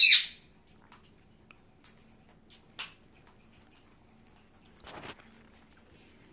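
A pet parrot gives one short, high call at the very start, followed by faint scattered clicks and rustles, with a brief rustle about five seconds in.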